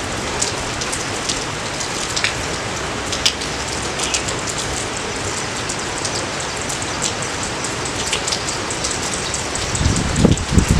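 Steady rain falling, with many close raindrops ticking sharply through it. About ten seconds in, a run of deeper, heavier drop thuds begins.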